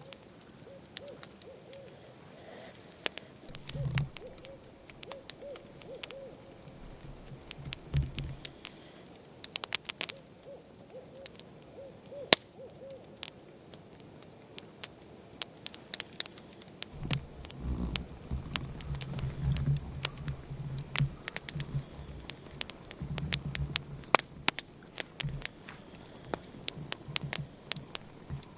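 An owl hooting in runs of short, evenly spaced hoots, two runs with a pause between. Sharp clicks come throughout, and low rumbling thumps join in during the second half.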